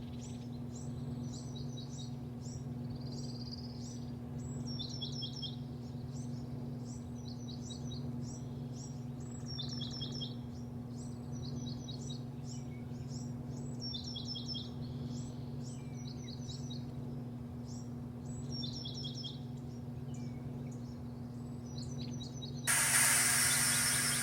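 A small bird singing short phrases of quick descending chirps, repeated every second or two, over a steady low machinery hum. Near the end a loud hissing rush starts suddenly.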